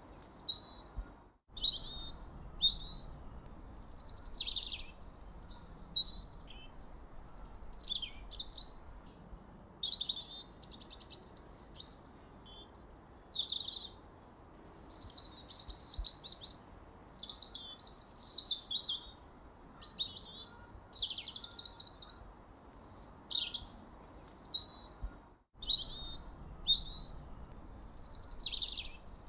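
Songbirds singing: an unbroken run of quick chirps, whistles and warbled phrases, high-pitched, over a faint low hiss. The sound cuts out completely for an instant twice, about a second and a half in and a few seconds before the end.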